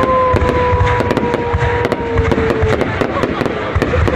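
Dense, rapid crackling pops, with a steady whistle that slowly falls in pitch and stops a little over halfway through.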